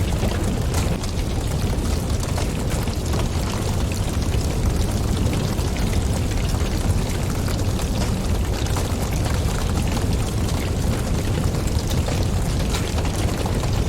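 Wood fire crackling, with many small sharp pops over a steady low rumble of flames and wind.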